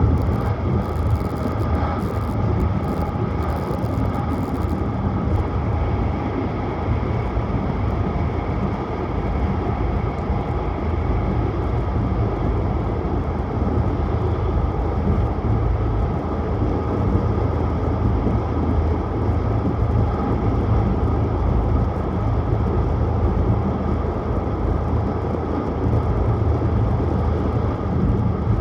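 Tohoku Shinkansen Hayabusa train running, with a steady deep rumble of wheels and motion heard from on board. Faint light ticking comes through in the first few seconds.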